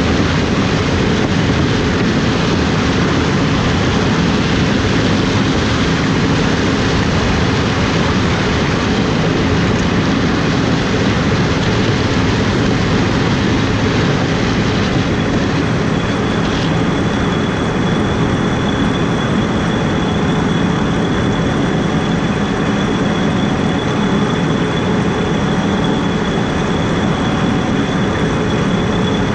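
Heavy corn-harvest machinery running steadily under load, a dense mechanical din with a deep engine hum. About halfway through, a thin high whine joins and holds steady.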